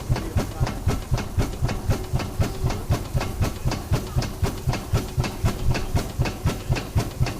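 Old fire engine's engine running, its exhaust beating steadily at about four beats a second over a low rumble.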